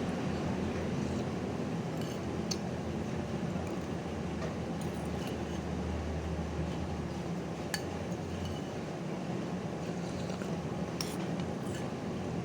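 Occasional light clinks of a spoon or utensils against a bowl or glass, a few seconds apart, over a steady low background hum.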